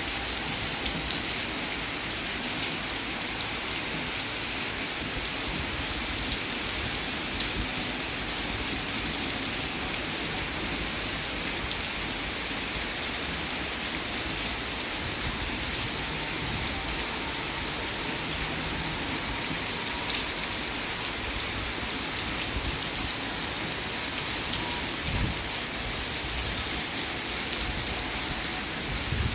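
Steady rain falling and hitting surfaces, unbroken throughout.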